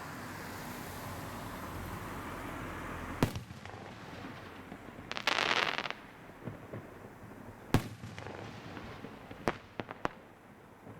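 Aerial fireworks going off: a steady hiss at first, then sharp bangs about three seconds in and again near eight seconds. Between them comes a dense crackling rush about half a second long, and near the end a quick cluster of pops.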